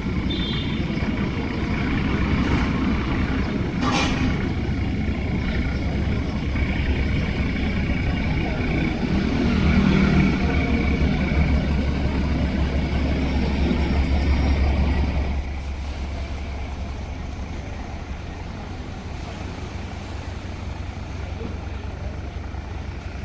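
Engine running with a steady low drone that drops in level about fifteen seconds in.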